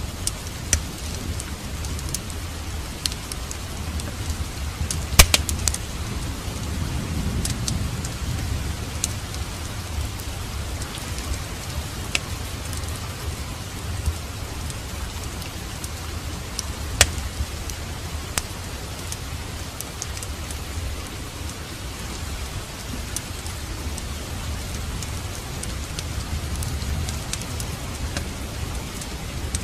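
Steady rain together with a wood fire in a fireplace crackling, with scattered sharp pops; the loudest pop comes about five seconds in, another about seventeen seconds in. A low rumble swells a few seconds in and again near the end.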